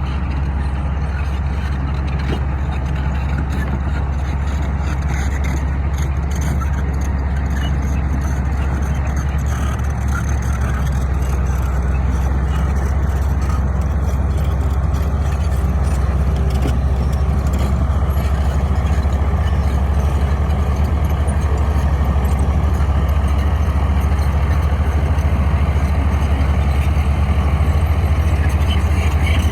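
Bulldozer's diesel engine running steadily with a deep low hum, a little louder in the second half.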